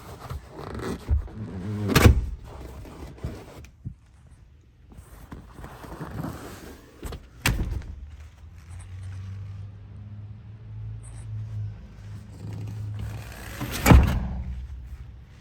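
Three sharp thunks of the pickup truck's body being shut, about two seconds in, about seven and a half seconds in, and the loudest near the end. A steady low hum runs underneath from about the middle on.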